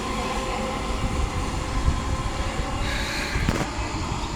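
Electric passenger train running along the line at speed, a steady rumble of wheels on the rails with faint steady tones over it.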